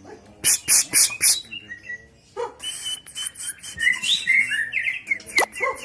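Caged murai songbird singing a fast, varied song of chirps, rasping notes and whistled slurs, ending in a quick series of short repeated slurred notes.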